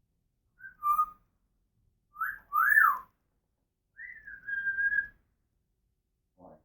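African grey parrot whistling: a short two-note whistle, then two quick swooping notes that rise and fall, then a longer whistle that dips and holds a steady pitch.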